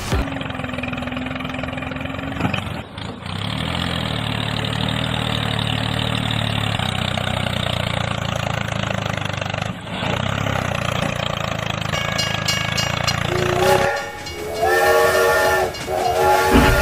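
Train running steadily, then sounding its horn in two blasts near the end.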